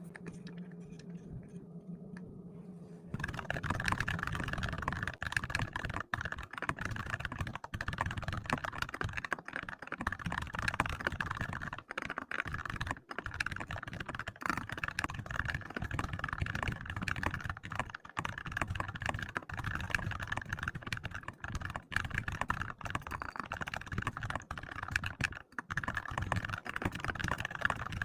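Typing on a computer keyboard: a quick, continuous run of keystroke clicks that starts about three seconds in, after a faint steady hum.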